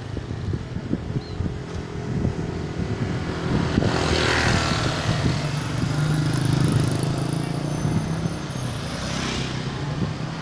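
Mountain bike rattling and knocking over a rough downhill trail, with rushes of wind over the microphone.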